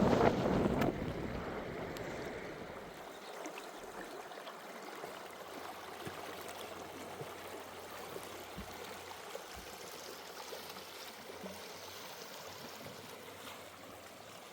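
Flowing river water, a steady even rushing. A gust of wind buffets the microphone in the first second.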